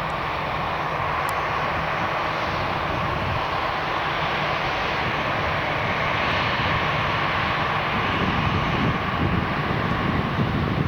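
Jet airliner's engines running, a steady rushing noise with a low rumble underneath.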